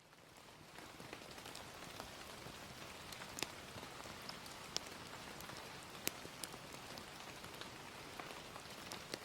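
Steady gentle rain, fading in over the first second, with scattered sharp pops of a crackling wood fire, a few of them louder.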